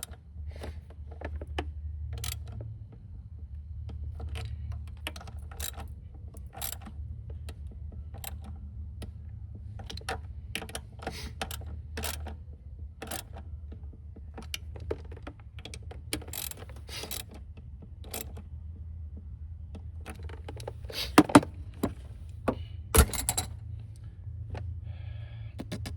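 Ratchet wrench clicking in irregular strokes as a 10mm bolt is tightened in a car's engine bay, with metal clinks of the tool and two louder knocks about three-quarters of the way through, over a steady low hum.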